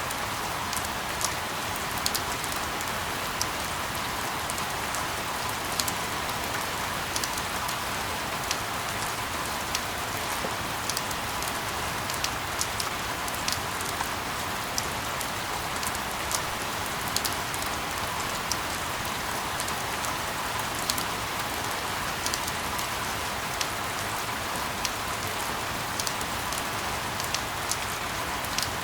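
Steady rain falling: an even hiss with scattered individual drops ticking sharply.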